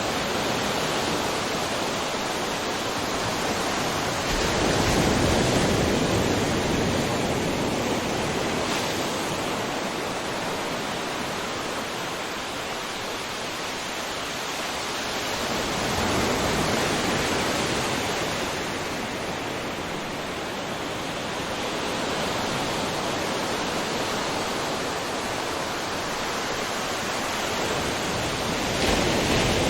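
Ocean waves breaking on a shore: a continuous rushing surf that swells louder about every twelve seconds as each wave crashes, three times in all.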